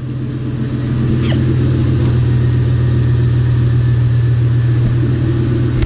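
2003 Ford Mustang GT's 4.6-litre V8 running at low speed through an exhaust with a leaking x-pipe, a steady low drone that grows a little louder over the first second, then holds even.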